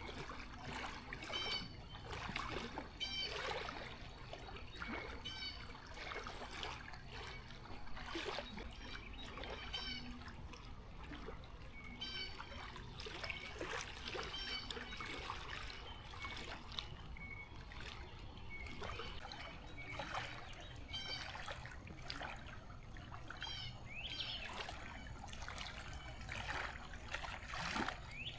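Faint lakeside ambience: water gently trickling and lapping, with short high chirps repeating every second or two.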